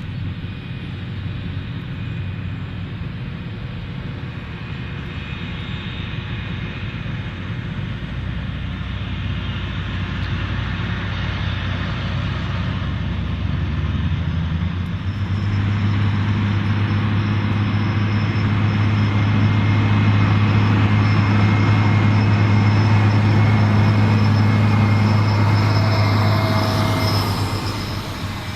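Engines of heavy maize-harvest machinery running steadily with a deep hum, growing louder about halfway through as a machine comes closer, then dropping away near the end.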